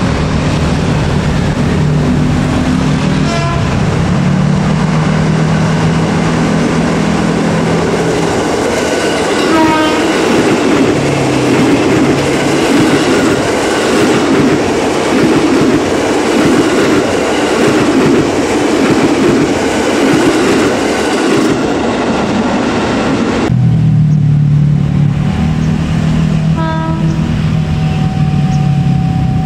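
KAI Commuter electric train passing close by: a steady low drone as it comes up, then a heavy rumble and clatter of wheels on the rails as the carriages go past. About two-thirds of the way in the sound cuts abruptly to another commuter train approaching, with its low drone.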